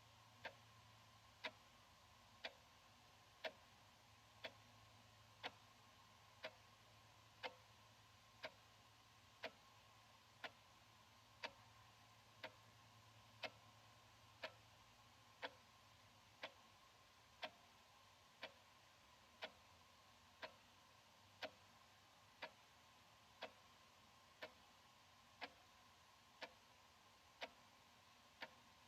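Analog wall clock ticking steadily, one sharp tick each second.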